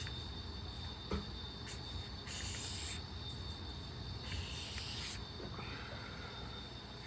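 Alcohol markers that are drying out scratching across paper: two longer scratchy strokes in the middle and shorter ones after, with a light knock about a second in, over a faint steady high-pitched whine.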